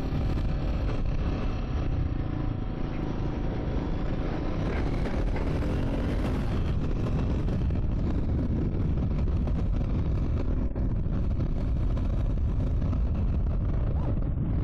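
Triumph Scrambler 400 X's single-cylinder engine running steadily as the motorcycle is ridden, mixed with steady wind noise.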